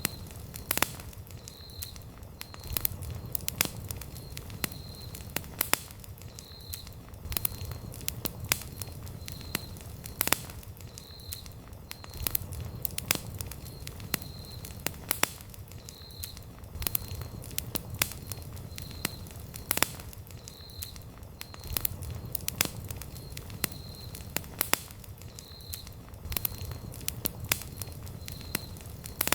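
Wood campfire crackling: frequent irregular sharp pops and snaps over a low, steady rumble of burning flames.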